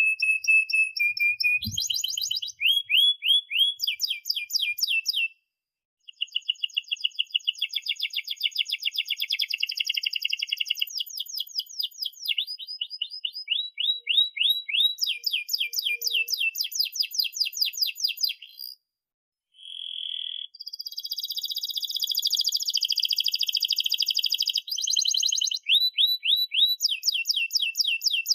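Domestic canary singing long, fast rolling trills of rapidly repeated high chirps, switching from one trill to the next, with two brief pauses, about five seconds in and near nineteen seconds.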